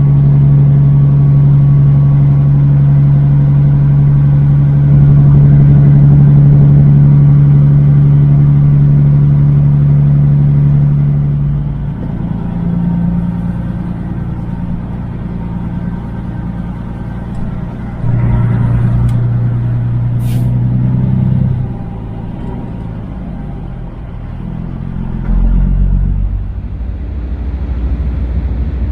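Semi truck's Caterpillar diesel engine (Kenworth W900) running steadily under way. After about 12 seconds the engine note drops and changes pitch several times. A sharp click comes about 20 seconds in.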